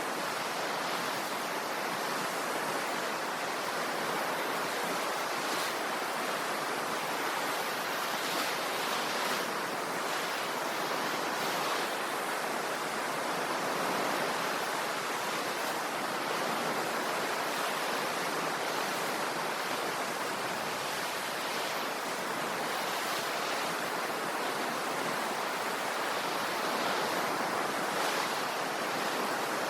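Ocean surf washing on the shore: a steady rush of waves with little rise and fall.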